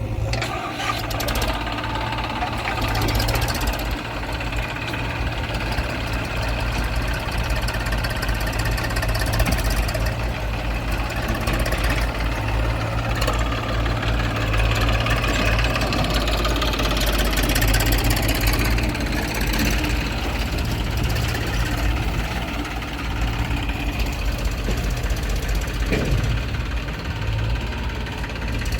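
Heavy diesel engines running steadily with a deep throb, the loudness swelling and easing a little as the backhoe loader works.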